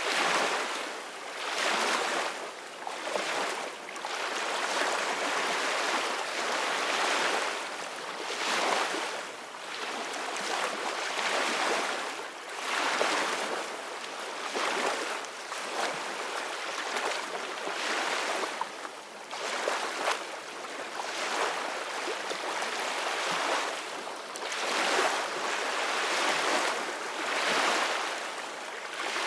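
Ocean waves washing in, the surf swelling and falling back every couple of seconds.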